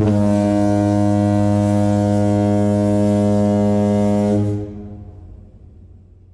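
Foghorn sound effect: one long, low, steady blast that starts abruptly, holds for about four seconds, then fades away.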